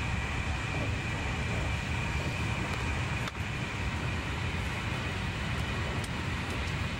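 Passenger train running at speed, heard from inside the carriage: a steady rumble and rushing noise with a thin, steady high whine. A short click and dip in the noise comes a little before halfway.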